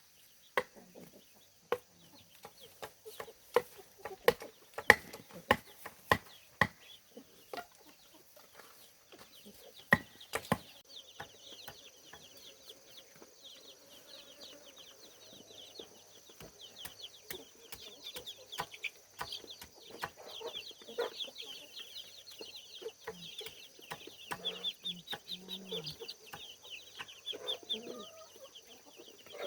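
Sharp knocks and taps for the first ten seconds or so, then steady high-pitched peeping of young poultry mixed with chicken clucking.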